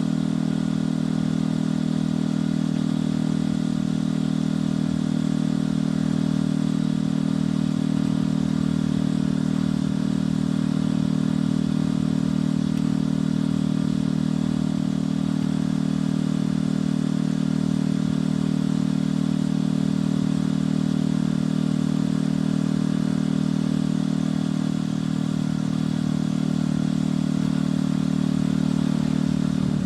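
Motorcycle engine and exhaust running at a steady cruising speed, its note holding nearly constant pitch.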